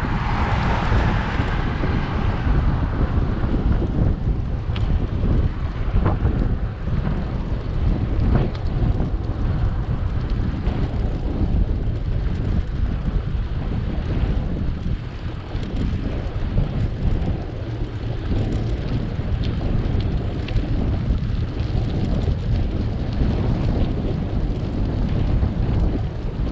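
Wind buffeting the microphone of a camera on a moving bicycle, a steady low rumble with a brighter hiss over the first two seconds and a few faint clicks.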